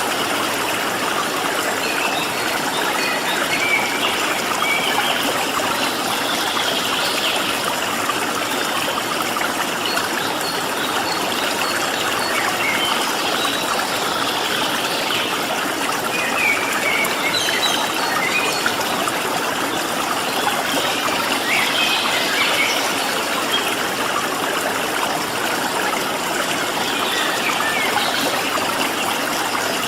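Steady rush of a flowing stream, with small wild birds chirping and calling in short notes scattered over it.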